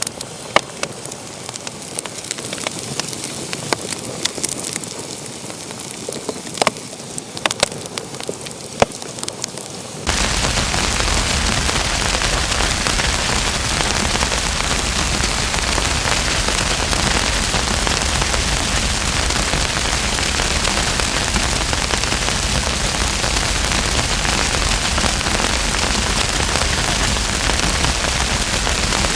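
Wood fire crackling, with sharp pops, for about the first ten seconds. Then the sound switches abruptly to a louder, steady hiss with no crackles.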